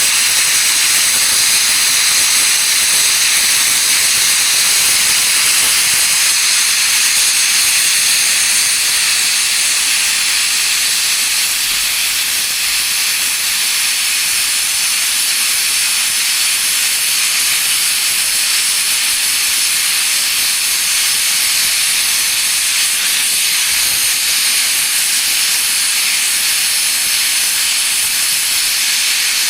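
Class 01 express steam locomotive 01 066 letting off steam: a loud, steady hiss with no exhaust beats.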